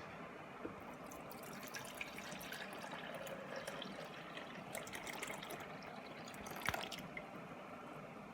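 Water running from a tap and splashing, with scattered drips and small clinks.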